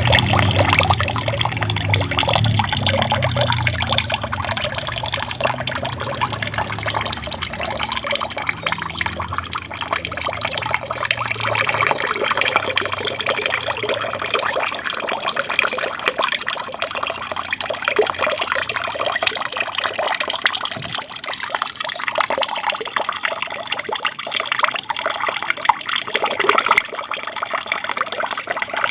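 Water from a small aquarium waterfall splashing and trickling steadily. A deeper rumble underneath fades out about ten seconds in.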